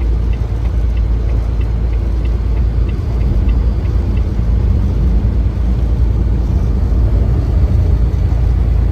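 Steady low rumble of engine and road noise inside a moving vehicle's cab, with faint regular ticking through the first half.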